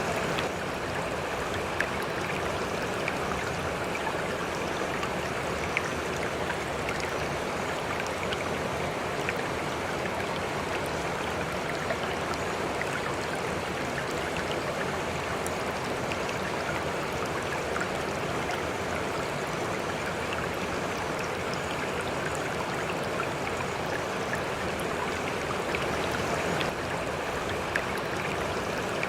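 River water flowing: a steady rush of running water, with faint small splashes and ticks here and there.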